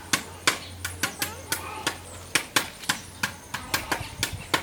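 A quick, uneven run of sharp clicks or snaps, about four a second, over a steady low hum.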